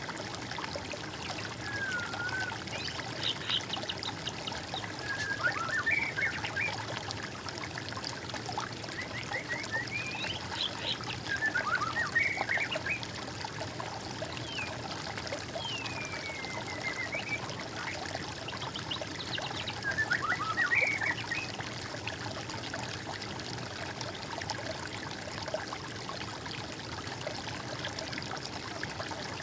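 Water trickling steadily, with a songbird singing short phrases of quick notes and sweeping whistles every few seconds.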